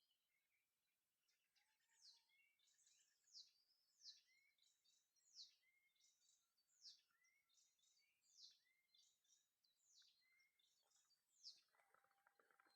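Faint outdoor birdsong: a bird repeats a high, quick downward-sweeping chirp roughly once a second, with softer lower notes from other birds between. A short rustling or clicking comes near the end.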